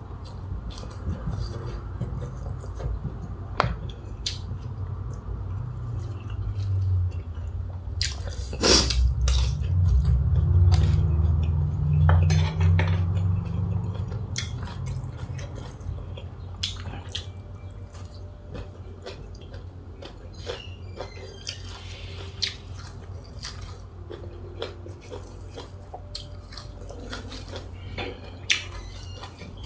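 Scattered clicks and clinks of utensils against dishes, with a louder low rumble from about six to fifteen seconds in.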